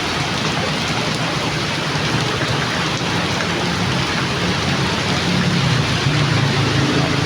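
Heavy rain falling and pattering on surfaces, a steady dense downpour.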